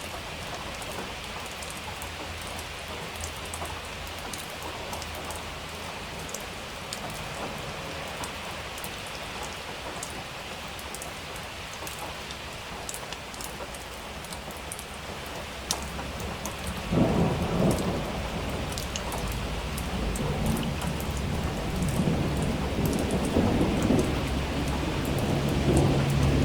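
Steady heavy rain hissing with scattered drop ticks; about two-thirds of the way in a thunder rumble breaks in loudly and keeps rolling, building toward the end.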